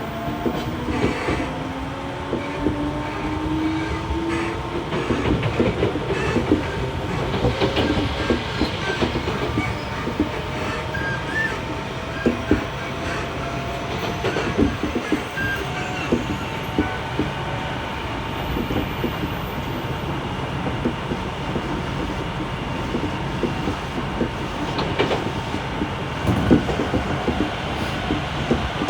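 Odakyu 1000-series electric train heard from inside a motor car. The traction motors whine, rising in pitch over the first few seconds as the train accelerates. It then runs on at speed with a steady hum, wheel rumble and repeated clacks of the wheels over rail joints.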